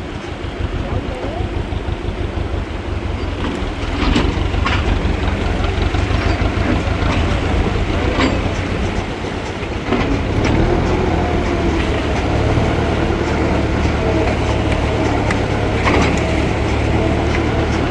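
An engine running with a steady low rumble, getting louder about four seconds in and again about ten seconds in, with scattered knocks.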